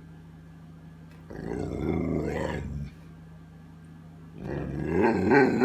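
Dog 'talking': two long, wavering vocalizations, the second louder, protesting and demanding his late dinner.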